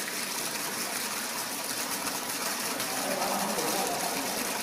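Steady rushing and splashing of water in a running gluten washing machine.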